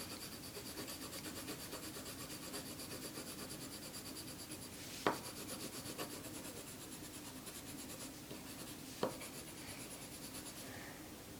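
Quick back-and-forth scribbling of a colouring pen or pencil on paper, faint and steady as a child fills in a drawing, with a sharp click twice.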